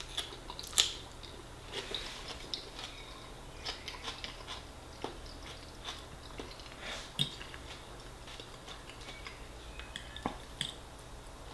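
Close-miked chewing of a mouthful of fisherman's pie and salad: wet mouth clicks and smacks, scattered and irregular. A few sharper clicks stand out, as the metal fork touches the plate.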